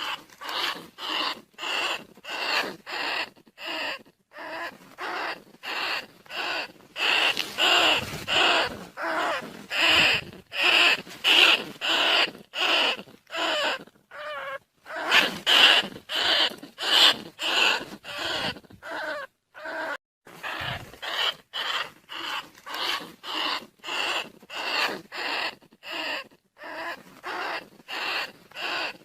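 Rats squeaking in a fast, even run of short calls, about two to three a second. It is a decoy recording of rat calls, played to lure rice-field and bandicoot rats.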